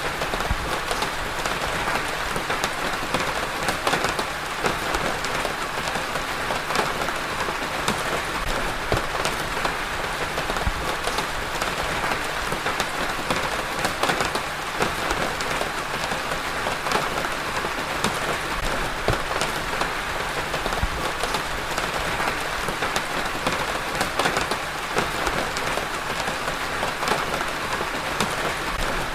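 Steady rain falling on a surface: an even hiss dotted with many small, sharp drop impacts, unchanging throughout.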